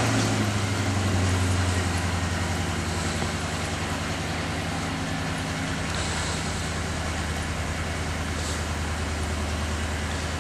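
A 2000 Ford Explorer's 5.0-litre V8 idling just after being started. It runs a little louder for the first couple of seconds, then settles into a steady idle.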